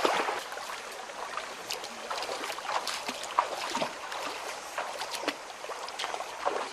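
River water trickling and splashing, with many small irregular splashes.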